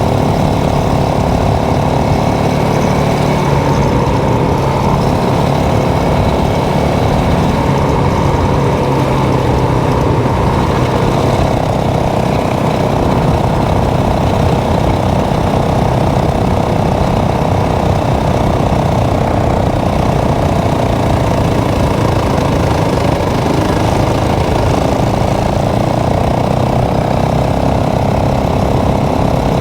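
Motorcycle engine running steadily while riding. Its pitch shifts a little over the first dozen seconds and then holds even.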